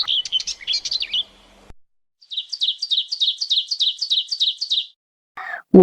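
Bird chirping. First comes a short jumble of high chirps. After a brief gap comes a fast, even run of repeated chirps, about six a second, that stops abruptly.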